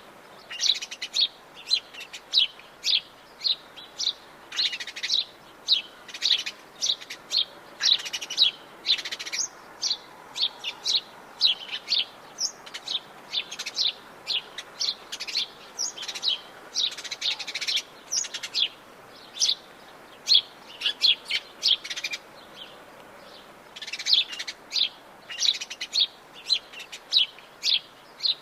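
Atlantic Forest birds chirping: a dense run of short, high chirps, several a second, with a short lull near the end.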